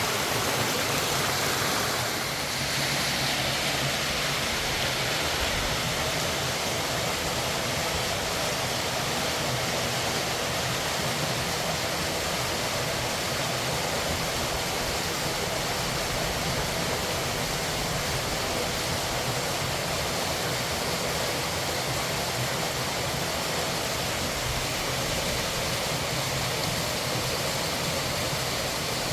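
Fast-flowing mountain river rushing: a steady, loud sound of water.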